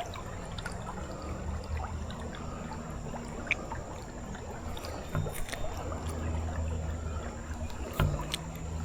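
Creek water flowing steadily around the canoe, with a few light knocks and clicks along the way.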